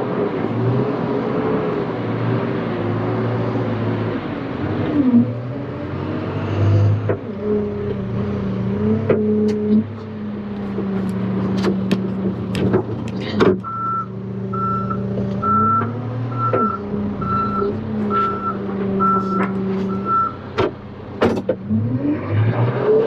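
John Deere 310K backhoe loader's diesel engine running, its pitch rising and falling as the machine is worked, with sharp clanks and clicks in the middle. For about seven seconds in the second half a backup alarm beeps steadily, about one and a half beeps a second.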